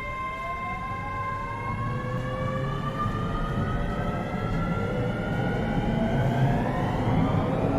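Keio 7000 series electric train accelerating from a stop, heard from inside the passenger car. Its traction motor and inverter whine rises steadily in pitch over the low rumble of the running gear.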